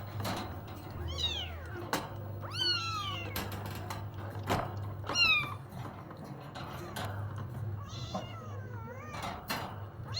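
A domestic cat meowing four times, each meow falling in pitch, the last one lower and wavering. Scattered light clicks and knocks sound between the meows.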